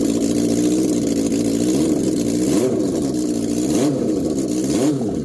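Suzuki GSX-R motorcycle engine running on its first start-up, idling steadily for about two seconds, then revved in several short throttle blips, the pitch rising and falling each time.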